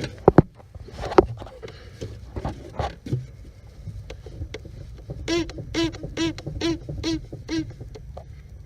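Steel steering column shaft rubbing against the rubber firewall boot of a 1997 Jeep Cherokee, giving a run of six evenly spaced squeaks, about two and a half a second, about five seconds in. The cold has stiffened the dry boot; a little grease on the shaft cures it. A few knocks and a low rumble come before the squeaks.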